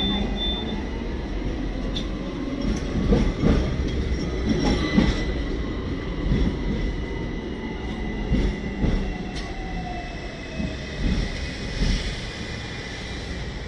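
Hong Kong double-decker tram running along its street rails: a steady low rumble, a thin high squeal from the wheels, and occasional sharp clacks over the track.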